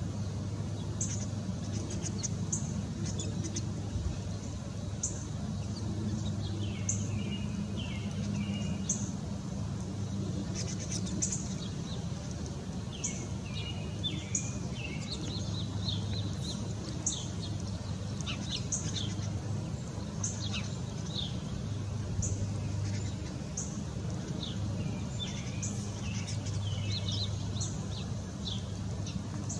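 Backyard birds calling: short high chirps repeating every second or so, joined at times by bursts of quick warbled song, over a steady low rumble of background noise.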